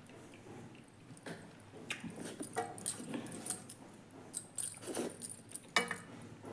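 Eating sounds: irregular small clicks and clinks, as of utensils or fingers against a metal plate, with mouth noises between them, and a sharper clink about six seconds in.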